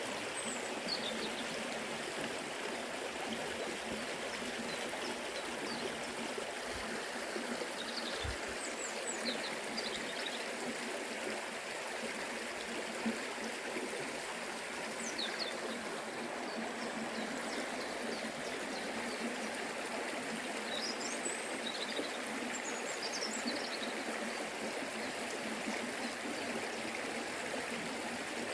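Forest river flowing: a steady rush of running water, with a few faint high chirps now and then.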